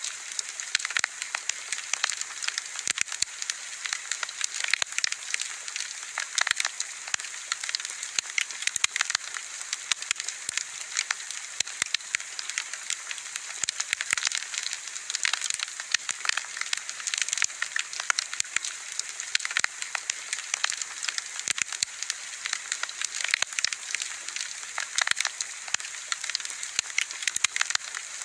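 Wood bonfire crackling: a dense, constant stream of sharp pops and snaps over a steady high hiss.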